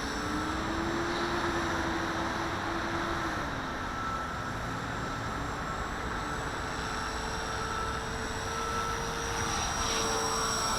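Walkera V450D01 electric RC helicopter whining in flight, its tone rising and then falling as it is banked hard, over a steady rush of wind noise.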